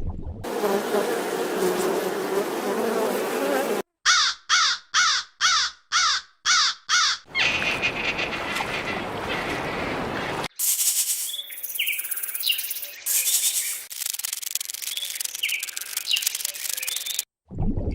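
A sequence of different animal sound clips, among them a run of about seven short, harsh calls, each falling in pitch, about two a second, followed by a stretch of hissy noise with faint chirps.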